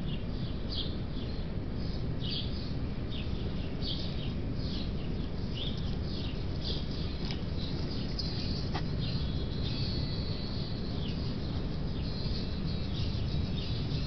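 Small birds chirping, many short calls one after another, over a steady low background noise.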